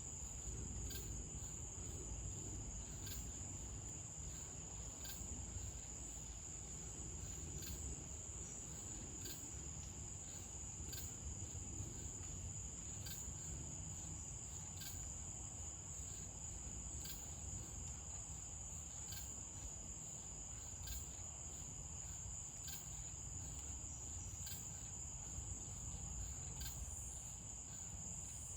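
Night insect chorus of crickets: a steady high-pitched trill, with fainter chirps coming about once a second.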